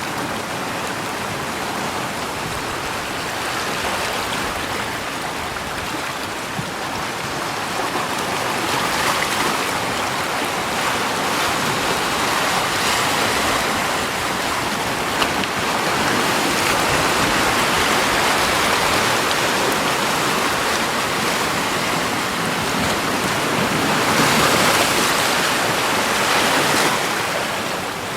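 Rushing water, a continuous wash that swells louder twice before easing back.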